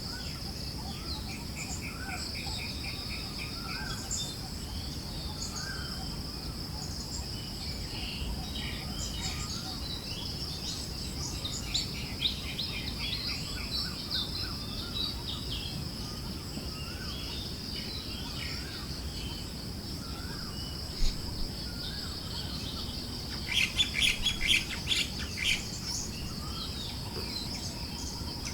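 Forest birds chirping and trilling over a steady high-pitched insect drone and a soft, even wind hiss. A quick run of rapid chirps comes about 24 seconds in.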